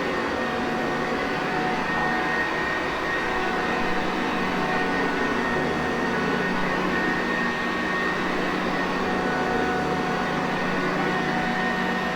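Sanitaire Perfect upright vacuum cleaner running steadily: an even rushing noise with a constant low hum and a few thin, steady whining tones above it.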